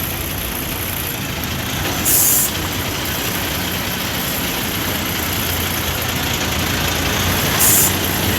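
Semi-truck diesel engine running steadily at low speed while backing, with two short hisses of air from the air brakes, about two seconds in and again near the end.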